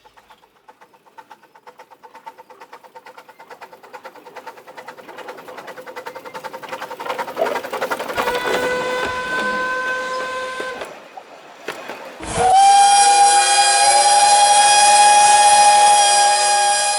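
Narrow-gauge steam locomotive chuffing in quick, even beats that grow steadily louder. A whistle blast of about three seconds comes near the middle, and a long, loud whistle starts about twelve seconds in and holds.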